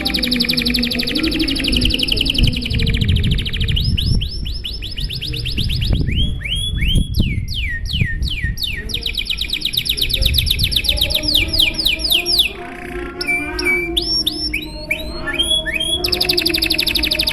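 A canary singing a long, unbroken song of rapid trills, switching to a new trill every second or few, some built of fast downward-sweeping notes.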